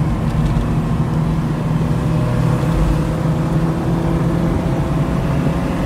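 Honda Civic's four-cylinder engine running steadily at low revs, heard from inside the cabin.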